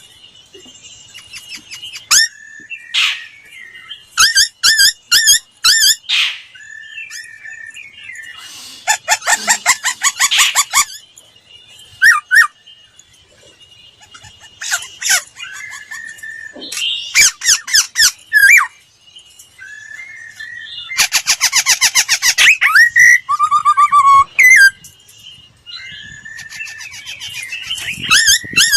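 Laughingthrush singing: loud phrases of rapid, repeated whistled notes and fast trills, with short pauses between the phrases.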